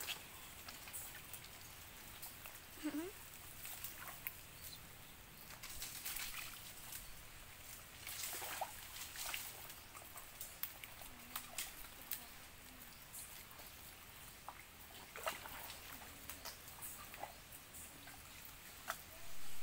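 Faint, scattered small splashes and clicks of wading in shallow water while feeling for clams, with a brief rising chirp about three seconds in.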